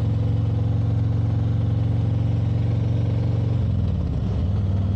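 Motorcycle engine running steadily under way. The engine note dips and settles again about four seconds in.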